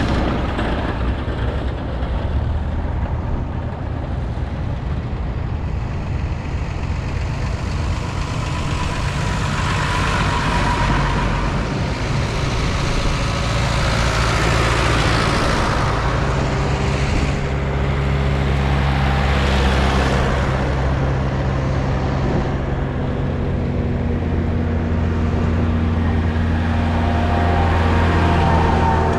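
Diesel tractor engines running as tractors drive past on the road, with several swells of engine and tyre noise as they go by and a steady low engine hum in the second half.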